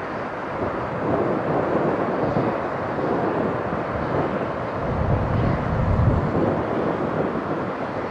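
Steady rumbling roar of jet aircraft engines, with wind buffeting the microphone in gusts, strongest about five to seven seconds in.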